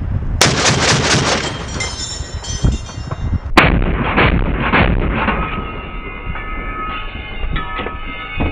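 Two heavy weapon reports about three seconds apart, each trailing off in a long rolling echo: military weapons fire on a firing range.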